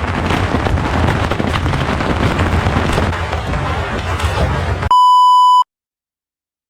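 Beehive fireworks (bottle rockets and firecrackers) crackling densely and without a break for about five seconds. The crackle cuts off into a loud, steady electronic beep of under a second, then dead silence.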